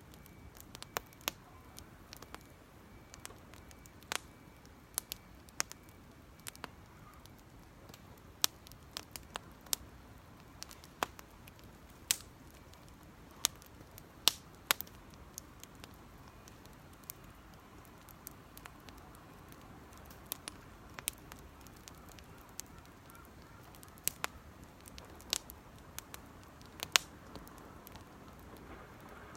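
Small wood fire of cedar leaves and twigs crackling, with irregular sharp pops about once or twice a second over a low steady hiss.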